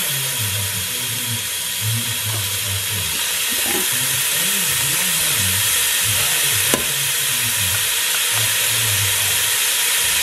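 Rice and marinated shrimp sizzling in hot olive oil in a Ninja Foodi pot: a steady frying hiss as shrimp are dropped in, with one sharp click about two-thirds of the way through.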